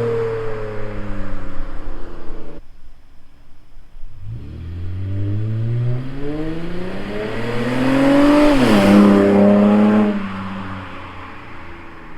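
2008 Acura TL Type S's 3.5-litre V6 running through a muffler-delete exhaust (mid and rear mufflers removed). The engine note cuts off abruptly after a couple of seconds; then, after a short gap, it rises steadily in pitch as the car accelerates, drops sharply near the loudest point as if shifting up, and fades over the last couple of seconds.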